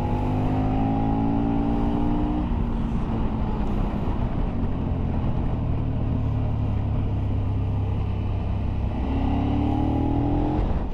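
Motorcycle engine heard from a bike on the move, with road and wind noise. Its note falls over the first couple of seconds, holds at a steady cruise, then rises near the end as the bike accelerates.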